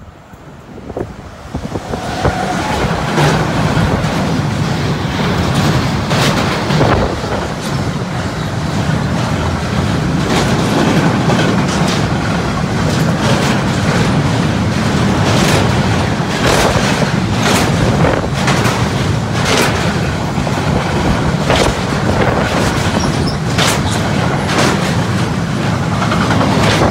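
Freight train of empty double-deck car-carrier wagons passing at speed on the track beside the platform. A loud steady rolling rumble builds over the first couple of seconds, with repeated clickety-clack of the wheels over rail joints.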